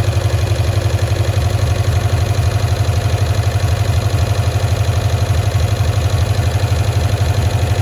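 1965 Cushman Truckster's engine idling steadily with a fast, even putter, running smoothly after a carburetor repair.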